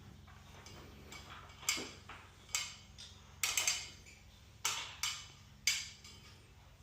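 A series of about six sharp clicks and knocks from hard objects, some of them doubled, each ringing briefly, over a low steady hum.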